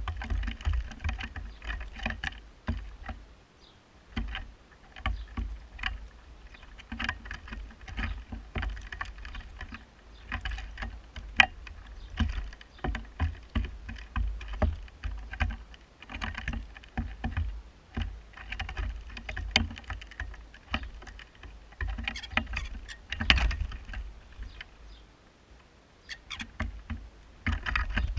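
Birds feeding on a bird table close to the microphone: many sharp, irregular taps and clicks of beaks pecking and feet scrabbling on the table. Under them runs a low wind rumble on the microphone.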